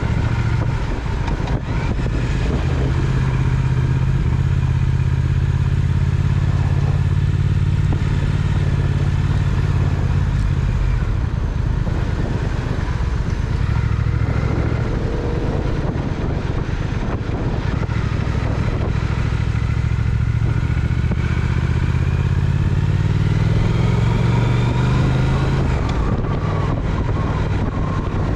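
Triumph Speed Twin's parallel-twin engine running on the move, with wind and road noise; the engine note rises near the end as the bike speeds up.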